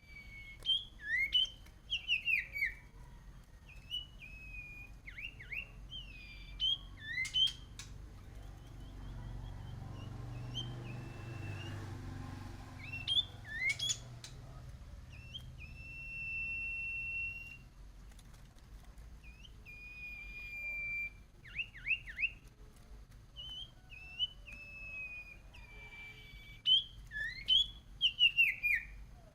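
A huýt cô songbird singing its fired-up fighting song: bursts of clear whistled notes, quick up-and-down swoops and held whistles, repeated with short pauses between phrases. A low rumble swells up and fades away in the middle.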